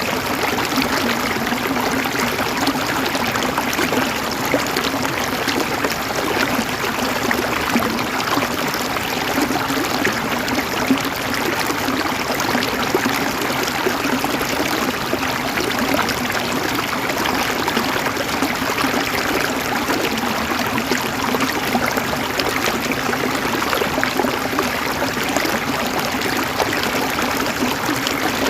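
River water flowing steadily, a continuous babbling and gurgling rush with small splashes within it.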